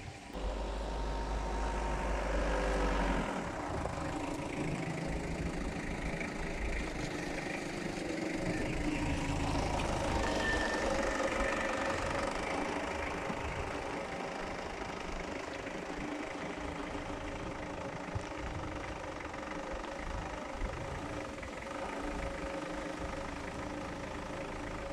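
Peugeot Expert 1.9 diesel engine starting just after the beginning and then idling steadily with diesel clatter.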